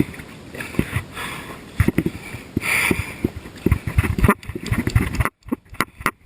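Irregular knocks and thumps on a Rotomod Mambo kayak's plastic hull, over a steady hiss, as the paddler shifts about. The sound drops out for a moment about five seconds in.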